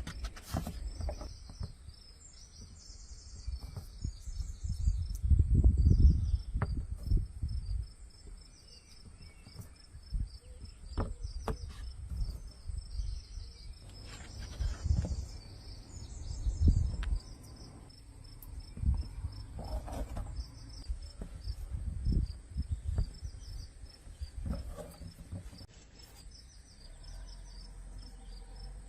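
Insects chirping in the background: a steady high trill with repeated chirping phrases. Under it, intermittent low rumbling and a few scattered knocks come and go.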